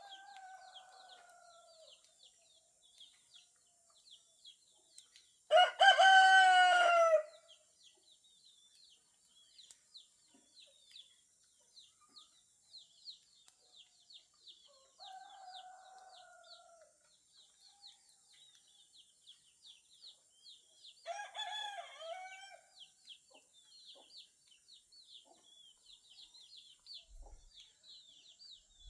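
A rooster crowing once loudly, a call about a second and a half long, around six seconds in, with fainter crows from more distant roosters near the start, around fifteen seconds and around twenty-one seconds. Rapid high chirping continues in the background throughout.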